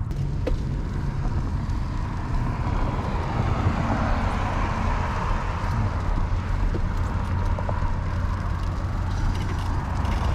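Wind rumbling over the microphone while cycling, mixed with passing road traffic that swells about four to six seconds in.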